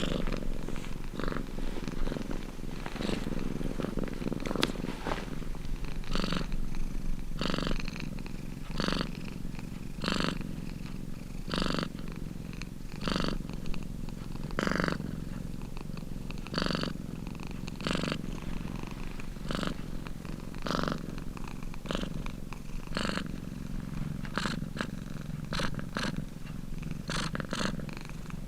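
Domestic cat purring steadily, swelling and easing in a regular rhythm about every second and a half.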